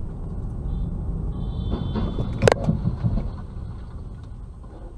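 Car interior road and engine rumble. A brief high squeal comes just before a sharp crash of impact a little past halfway, followed by a few knocks, and then the rumble dies away as the car slows.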